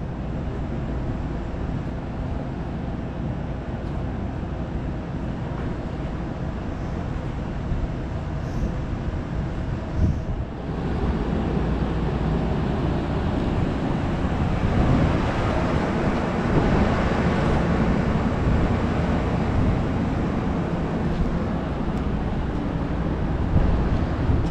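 Steady rumble and hiss at a railway platform beside a standing JR West 227 series "Red Wing" electric train. After a brief knock about ten seconds in, the noise jumps louder and more hissy.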